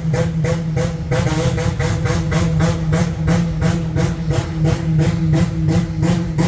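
A car engine idling with an even pulse of about five beats a second over a steady low hum.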